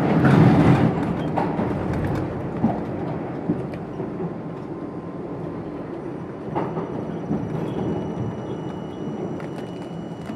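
R42 subway car rolling along the rails, a dense wheel-and-rail rumble with scattered clacks over rail joints. The noise eases steadily as the train slows for the next station.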